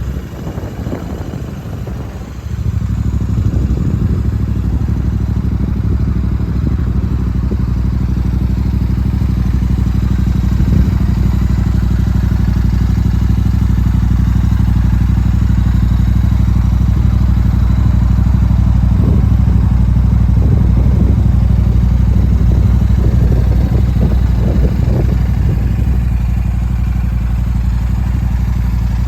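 Royal Enfield Shotgun 650's 648 cc parallel-twin engine idling through an aftermarket exhaust. It grows louder about two and a half seconds in, then runs steadily.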